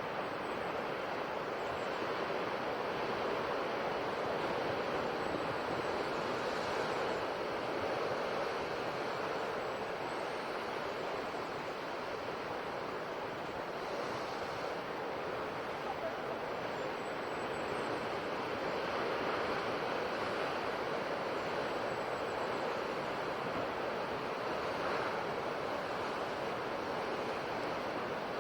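Sea waves washing onto the shore, a steady surf noise that swells and eases gently every several seconds.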